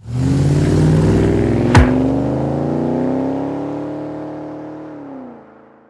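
Car engine accelerating and rising in pitch, with one sharp crack just before two seconds in, then the note falls and fades away as the car passes and moves off.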